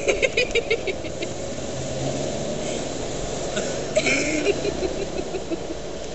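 Land Rover Discovery V8 engine running steadily at low speed, heard from inside the cabin, with light rattles in the first second.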